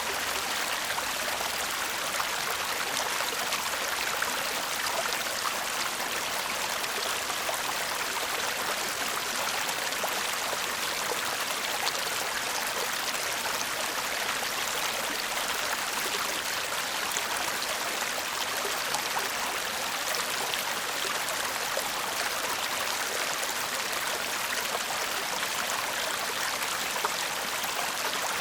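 Shallow stream babbling steadily over stones, an even high watery rush with fine trickling detail.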